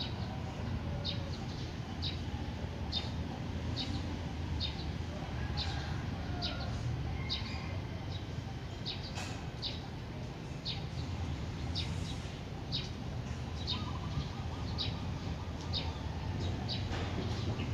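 A small bird chirping over and over, short high chirps about once a second, over a steady low rumble.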